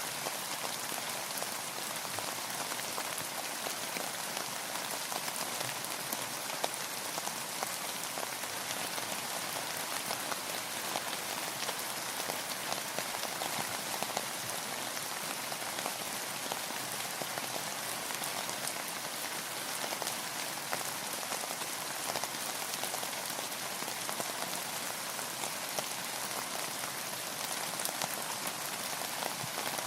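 Steady rainfall, an even hiss of many drops pattering on surfaces.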